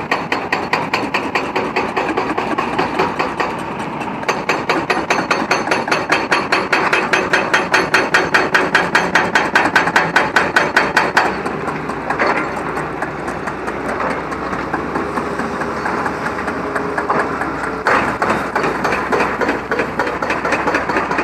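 Machinery at a cable-laying job hammering in a fast, even rhythm of sharp knocks, about seven a second, loudest in the middle and looser toward the end.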